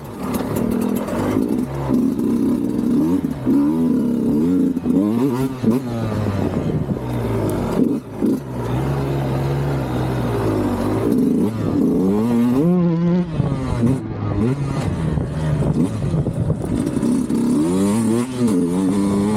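Sherco 125 SE Factory two-stroke single-cylinder enduro engine through a Fresco exhaust, revving up and easing off over and over, its pitch climbing and dropping many times.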